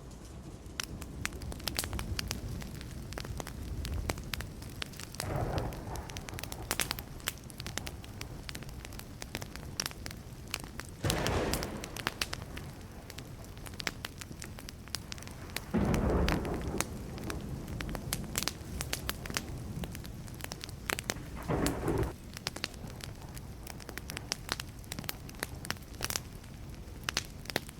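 Burning wood fire crackling, with dense sharp pops and snaps throughout. Four louder, brief rushes stand out, about a quarter, two fifths, three fifths and four fifths of the way through.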